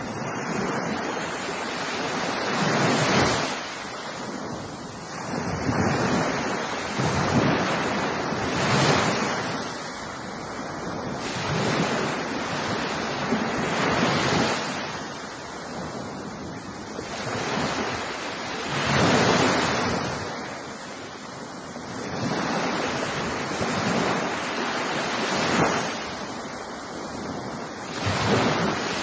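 Ocean waves breaking on a beach: surf noise that swells and recedes with each wave, every two to three seconds.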